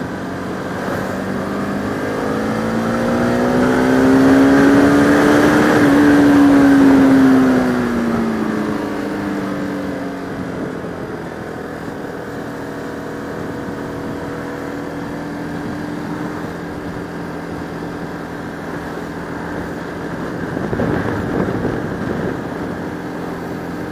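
Bajaj Pulsar RS200 motorcycle engine heard from the rider's helmet camera, over a steady rush of wind. It speeds up for a few seconds, rising in pitch to its loudest about six seconds in, then eases off and settles to a steady cruise.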